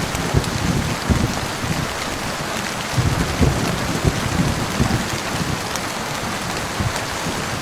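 Steady heavy rain, with a low rumble of thunder swelling and fading underneath, strongest in the first second and again from about three to five seconds in.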